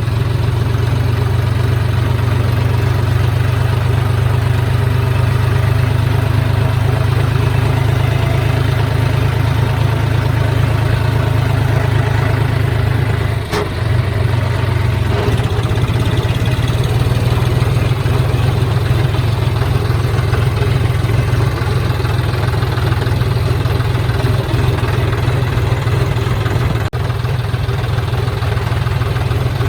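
John Deere 5039D tractor's three-cylinder diesel engine running at a steady speed, dipping briefly about halfway through.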